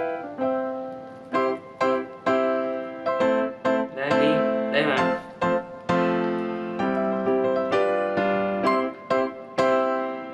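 Background piano music: a gentle melody of single struck notes, each ringing and fading.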